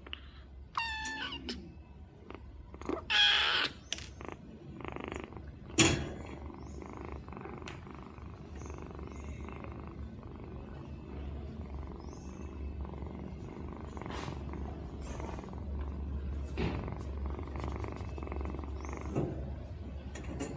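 Kittens purring steadily, with a few short high calls and a loud knock in the first six seconds.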